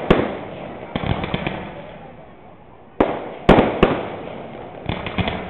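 Fireworks display: aerial shells bursting in a series of sharp bangs, each followed by crackling that fades away. There are bangs near the start and about a second in, a loud cluster around three to four seconds in, and a looser run of crackles near the end.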